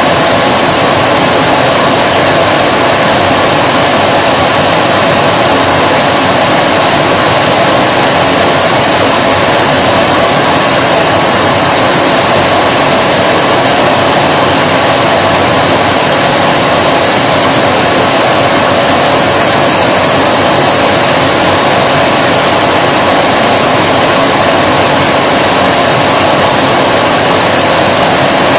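Vacuum cleaner motor running continuously at a steady, unchanging pitch, a loud even whoosh of motor and airflow with a faint steady whine.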